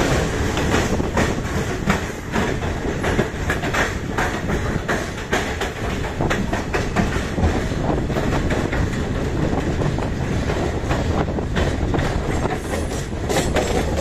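Passenger train running on the track, heard from aboard a coach: a steady rumble with the wheels clattering irregularly over rail joints.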